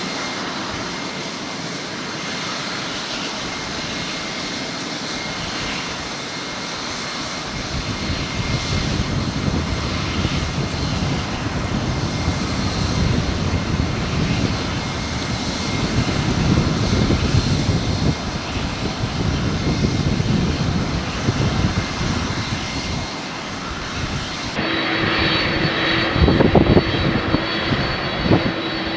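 Boeing 767 freighter's jet engines running, a continuous noise that swells about a quarter of the way in. Near the end the sound changes abruptly, with a steady high whine over the engine noise.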